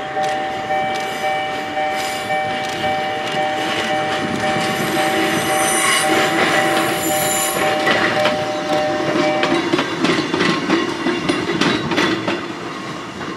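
Kotoden retro electric car No. 120 rolls slowly past, its wheels clacking over rail joints and points, with a brief high wheel squeal about halfway through. Over it a two-tone railway crossing warning bell pulses about twice a second, then stops a few seconds before the car's sound fades.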